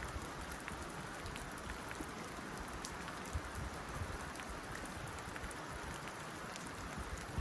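Rain falling steadily on a tin roof: a continuous patter with scattered sharper drop ticks.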